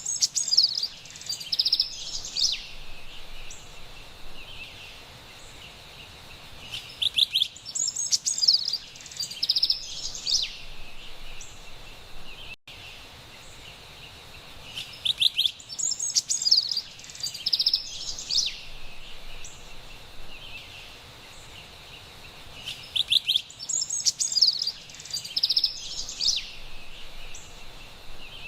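Carolina wren singing: four bursts of quick, high, repeated notes, roughly every eight seconds. Between the bursts there is a steady faint high hiss, and the sound briefly drops out near the middle.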